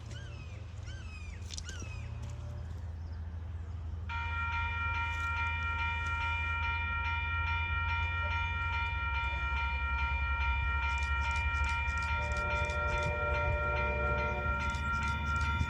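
An approaching train's horn sounds one long blast, a chord of several notes that comes in about four seconds in and is held to the end, over the low rumble of the locomotive growing louder. Evenly spaced ticks join near the end.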